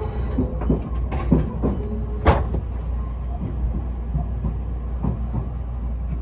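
Odakyu Romancecar express train running: a steady low rumble with a few short knocks, the sharpest about two seconds in.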